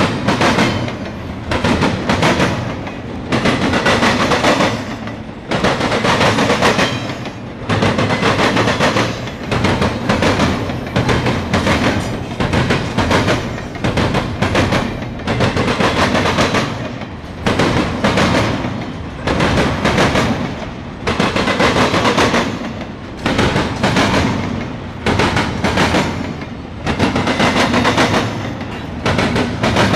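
Double-stack intermodal freight cars rolling past at speed, the wheels clattering over rail joints in loud clusters of sharp clacks about every one and a half to two seconds over a steady rolling rumble.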